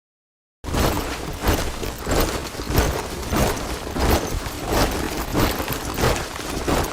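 A column of soldiers marching in boots, many footfalls landing together in a steady rhythm of about two steps a second. It starts abruptly about half a second in, after a moment of silence.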